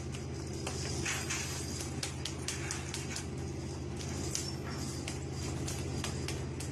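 Steady low drone of a fishing vessel's engine, with scattered clicks, taps and knocks over it.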